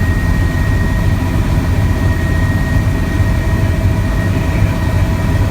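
Helicopter in flight: a steady low rotor and engine drone with thin, steady whining tones above it.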